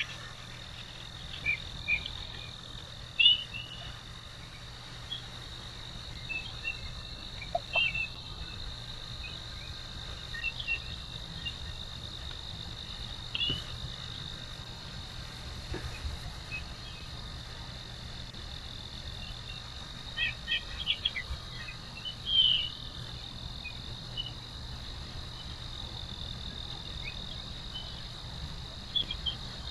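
Steady high-pitched drone of an insect chorus, with short bird chirps scattered through it and a cluster of louder chirps about two-thirds of the way in.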